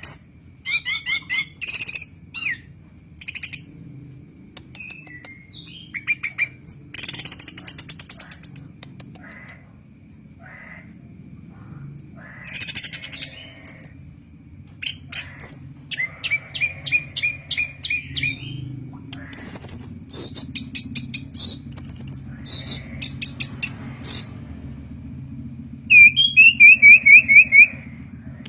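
Chestnut-capped thrush (anis kembang) singing a varied song of short bursts: rapid high-pitched repeated notes, quick trills and harsh phrases, with brief pauses between them. A steady low hum runs underneath.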